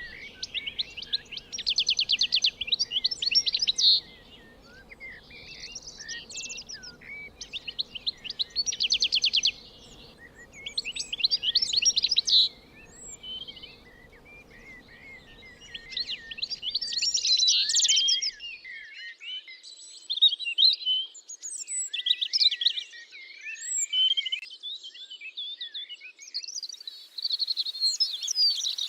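Songbirds singing: bursts of rapid trills and chirps about every two seconds, with several birds' songs overlapping in the second half.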